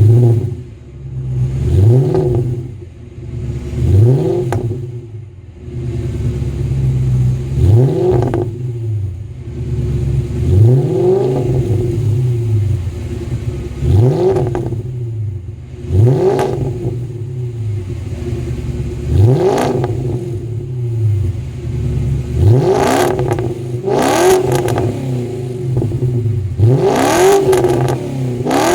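Car engine with a loud aftermarket exhaust idling and being blipped repeatedly at a standstill, about one rev every two to three seconds. Each rev rises quickly in pitch and drops back to idle.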